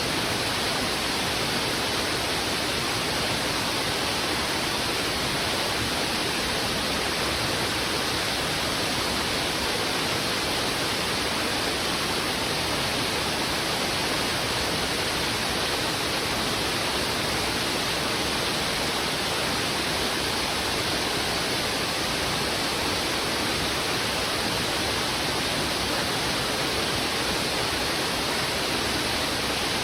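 A fast-flowing river rushing over rocks: a steady, unbroken rush of water with no change in level.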